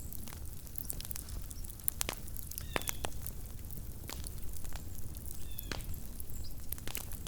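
Wood campfire crackling, with irregular sharp pops and snaps. Twice, about three seconds and five and a half seconds in, a short high squeak cuts in.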